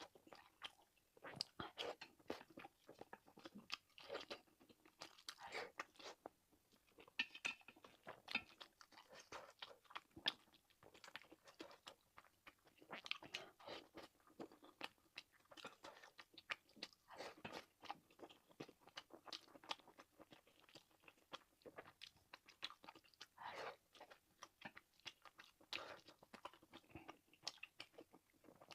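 Close-miked chewing of fried rice and sausage: a steady run of irregular crunches and clicks, several a second.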